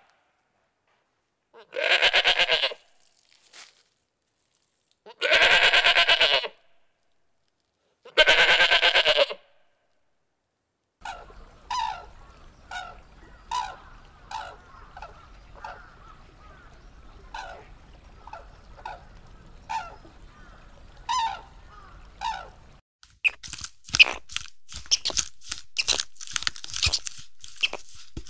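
Four long, bleat-like animal calls, each about a second long with silent gaps between them. They are followed by a run of short, high chirping calls, and near the end by dense crackling clicks.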